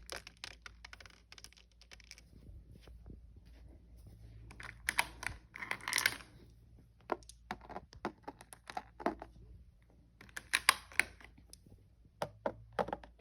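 Marbles clicking and clattering against each other and the track in irregular bursts, busiest about five to six seconds in.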